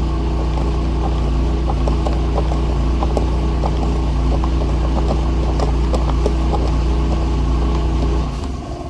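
An electric motor of the vent-cleaning setup running with a steady hum, with many quick ticks and rattles over it, likely debris in the duct. The hum cuts off sharply about eight seconds in.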